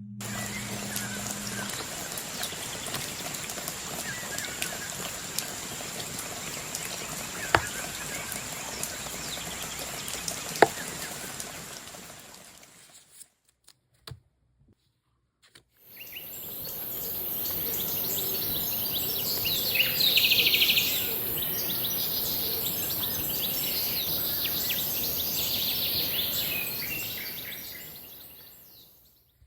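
Forest ambience with birds chirping over a steady hiss, with a few sharp clicks in the first half. The sound drops out briefly about halfway through, then the ambience returns with a louder high hiss.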